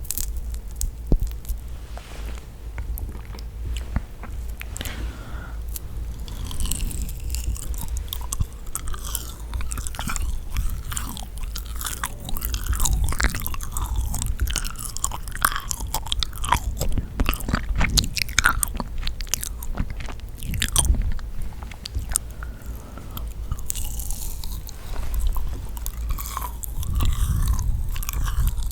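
Close-miked biting and chewing of yakgwa, the Korean deep-fried honey cookie: sticky, wet chewing with small crunches and mouth clicks all through.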